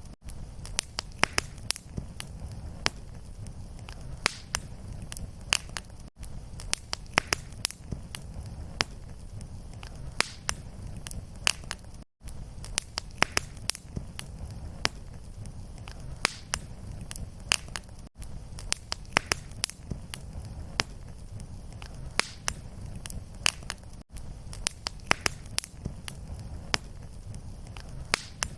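Fireplace fire crackling and popping, with many sharp snaps over a steady low rumble of flames. The sound briefly cuts out about every six seconds, the seam of a short repeating loop.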